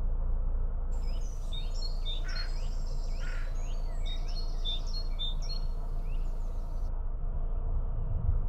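Songbirds singing in quick, repeated chirps and short down-sweeping notes, from about a second in until shortly before the end, over the steady low rumble of a narrowboat's engine under way.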